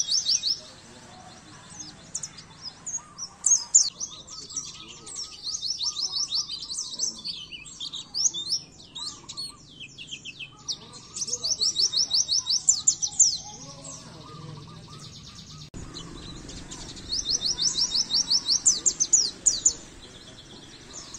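Pleci (white-eye) singing: a high twittering song broken into runs of fast, evenly repeated trilled notes, with the loudest trills about eleven and seventeen seconds in.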